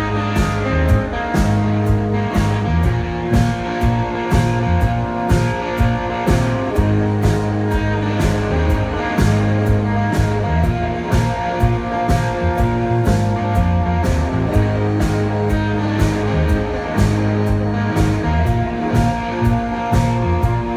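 Live indie rock band playing an instrumental passage between vocal lines: guitars and bass over a drum kit keeping a steady beat.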